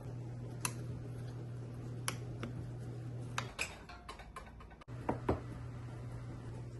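A scatter of light clicks and taps, like utensils and containers being handled in a kitchen, with a few close together just past the middle. Under them is a steady low hum that drops out for about a second and a half midway, then returns.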